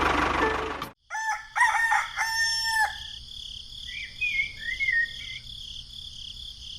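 Music cuts off about a second in. Then a rooster crows, over a steady high insect drone, and a small bird chirps a few times near the middle.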